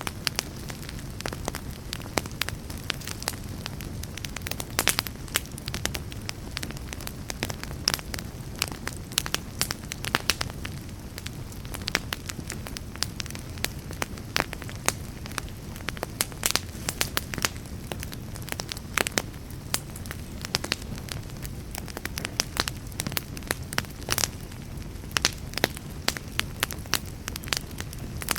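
Fire burning, with a steady low rumble and frequent sharp, irregular crackles and pops.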